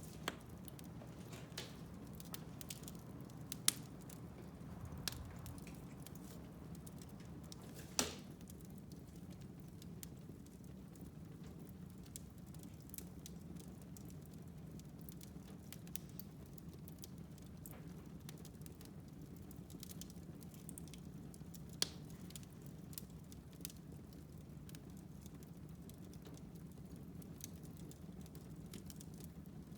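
Wood fire crackling in a fireplace: scattered small ticks and pops over a low, steady rush of the flames. Three louder pops stand out, the sharpest about eight seconds in.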